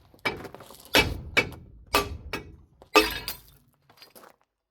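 Hammer blows driving the front axle's inner oil seal carrier out of an M35A2 axle housing: about six sharp metallic strikes, the heaviest about a second in and three seconds in.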